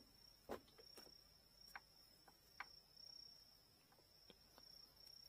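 Faint, scattered small clicks and taps from handling the bamboo rod tip and its core parts, about five or six in all, over a thin steady high-pitched whine.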